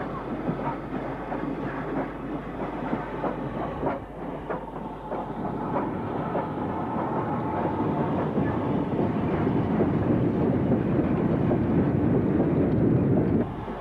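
Steam-hauled train running by, its wheels clicking rapidly over the rail joints. The rumble grows louder through the second half and cuts off abruptly near the end.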